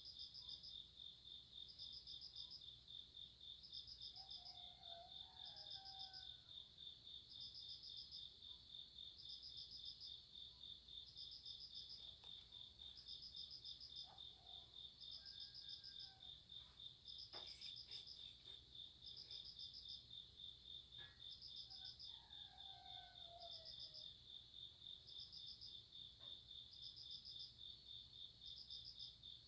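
Faint chorus of night insects: one keeps up a steady, fast trill while a second chirps in short bursts about once a second. A few faint gliding calls come and go over it.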